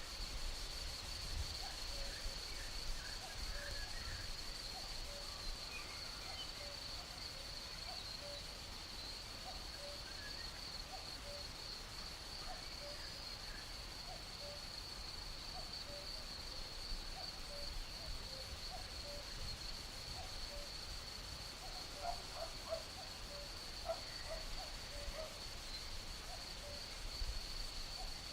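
Nature ambience: a steady high-pitched insect trill with scattered short chirping calls, which come more thickly near the end, over a faint low rumble.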